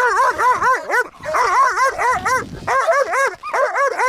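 A dog whining and yelping insistently: a fast string of short rising-and-falling cries, about four or five a second, with brief pauses.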